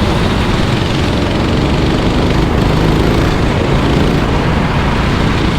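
Several racing kart engines running on a wet track, their pitch rising and falling as they accelerate and go by, over a steady noisy rush.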